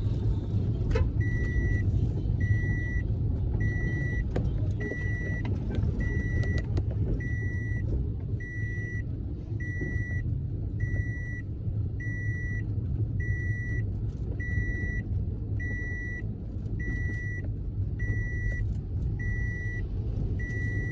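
Car engine and road rumble heard from inside a moving car. From about a second in, a high electronic warning beep repeats steadily, roughly once a second.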